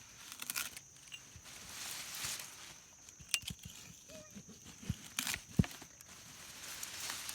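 Rustling, crinkling and tearing of sweet potato vines and soil being worked by hand, with scattered clicks and a few sharp knocks, the loudest about five and a half seconds in.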